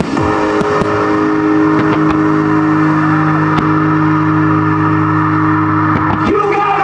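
One long low chord held for about six seconds, several pitches together, with a few sharp firework bangs over it.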